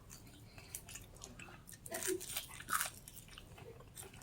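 A person chewing and crunching food close to the microphone, with irregular crisp mouth clicks and crunches, busiest in the middle.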